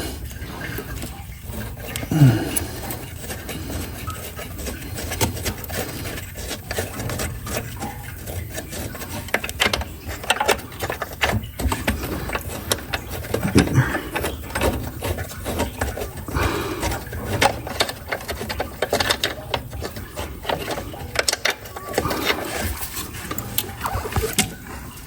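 Hand work on a pressure washer's burner cover box: irregular clicks, knocks and rattles as the box is worked loose, with a couple of short vocal sounds.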